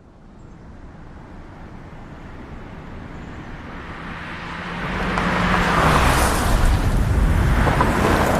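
A vehicle's engine and rushing road noise swelling steadily, as if approaching, loudest in the last few seconds, with a low engine note that drops slightly in pitch about halfway through.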